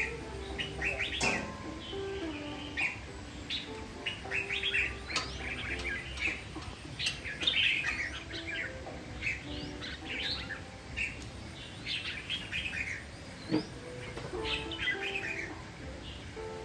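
Red-whiskered bulbul singing: a run of short, quick chirping phrases repeated throughout, over faint background music.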